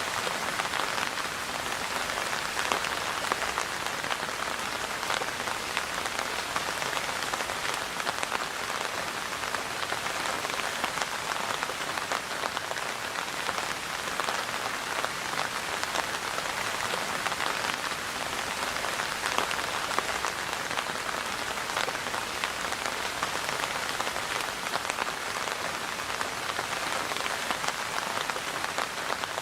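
Steady rainfall pattering on a surface, an even hiss of many close drops with no let-up.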